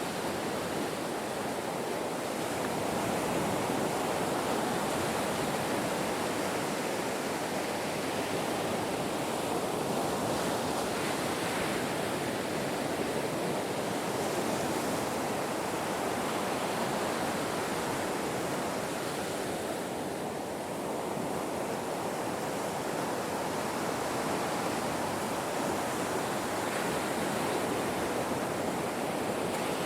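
Ocean waves breaking on a shore, a continuous wash of surf that swells and eases gently, with a slight lull about twenty seconds in.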